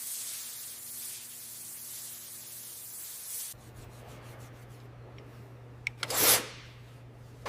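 A steady high hiss of workshop abrasion or spraying cuts off suddenly about three and a half seconds in. A low steady hum follows, with a couple of faint clicks and one short, louder rubbing swipe near the end.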